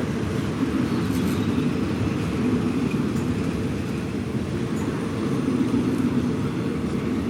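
Steady low rumble of a passenger train running along the line, heard from on board.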